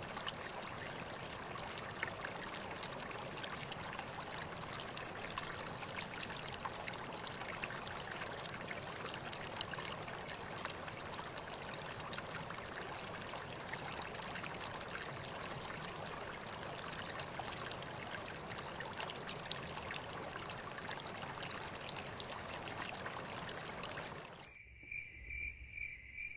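Running stream water, a steady rushing trickle. Near the end it cuts off abruptly to a single cricket chirping in even high pulses about twice a second.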